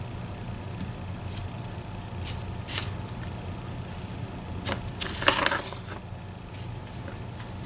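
Small metallic clicks and taps of EVVA ICS lock parts (core, sidebars, springs) being handled during disassembly, with a short cluster of rattling clicks about five seconds in, over a steady low hum.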